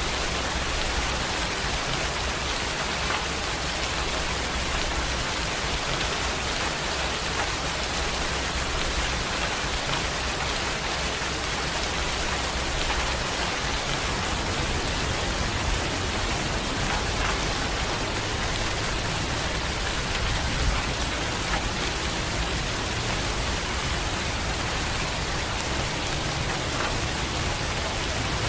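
Steady rain falling, an even hiss with a few separate drops ticking through it.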